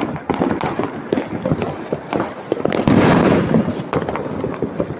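Firecrackers and fireworks bursting in quick succession, a dense string of sharp cracks, with one louder, longer burst about three seconds in.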